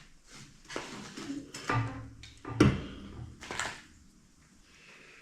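Parts being picked up and set down while someone rummages for the right piece: four knocks and clatters about a second apart, dying away after about four seconds.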